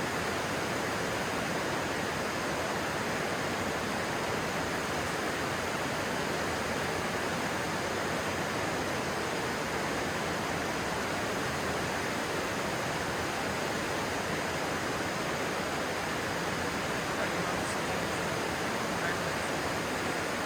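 Stream water rushing, a steady, even noise.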